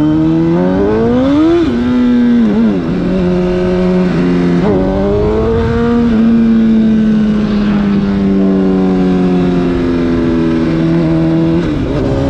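Honda CBR1000 sportbike's inline-four engine being ridden hard: the revs climb steeply in the first couple of seconds and fall away twice, then hold fairly steady at cruise before falling again near the end, over steady wind rush.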